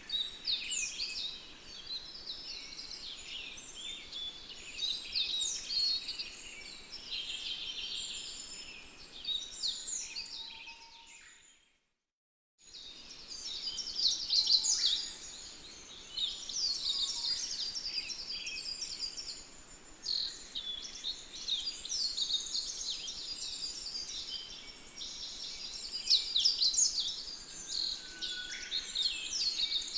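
Dense chorus of many songbirds chirping and trilling over one another. About twelve seconds in it fades out to a second of silence, then resumes.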